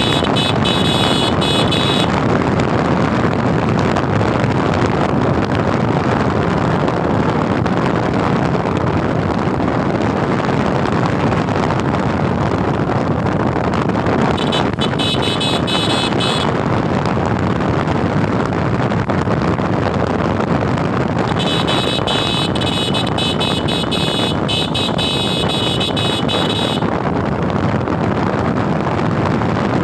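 Steady rush of wind and road noise from a Suzuki Gixxer motorcycle on the move. A shrill, rapidly pulsing high-pitched sound comes and goes three times, the longest near the end.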